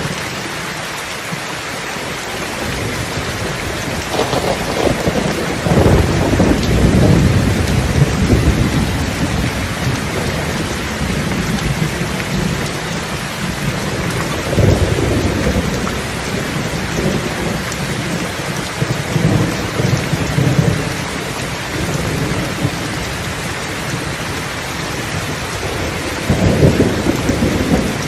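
Steady rain falling, with several rolls of low rumbling thunder. The longest roll builds about four seconds in and lasts several seconds. Shorter rolls come midway and near the end.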